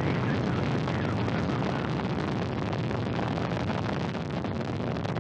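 Soyuz rocket's first-stage engines (four strap-on boosters and core stage) in flight shortly after liftoff, a steady deep roar and crackle with the energy low down.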